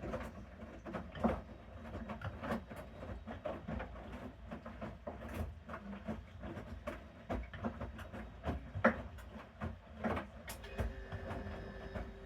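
Bosch Series 6 front-loading washing machine in its main wash: the drum turns with a low rumble while the wet laundry tumbles with irregular thumps and clicks. A steady whine starts near the end.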